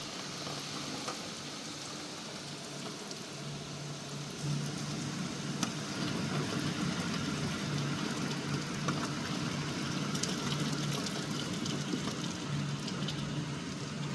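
High wind and heavy rain of a cyclonic storm, a steady rushing noise. From about four and a half seconds in, a low steady hum joins it and the sound grows a little louder.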